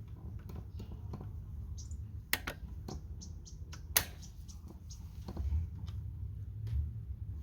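Pliers clicking and tapping against the metal brake line fitting in scattered, irregular strokes, with a sharper metallic click about four seconds in, over a steady low hum.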